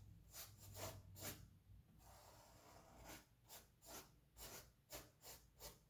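Faint, short strokes of a paintbrush picking up tan paint and brushing it onto canvas, a few at first and then about seven in quicker succession.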